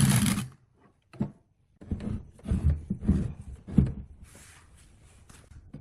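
A loud running workshop machine stops about half a second in. After a short pause comes a string of irregular knocks and thuds, and then it goes quiet.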